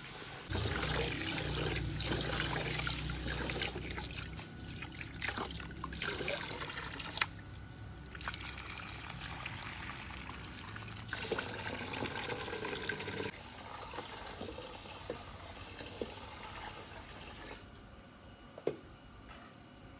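Water trickling and pouring, with a few small knocks and clinks.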